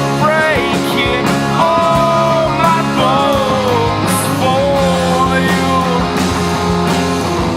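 Punk-emo rock band playing an instrumental passage: guitars, bass and drums, with a high lead line that bends and slides between held notes.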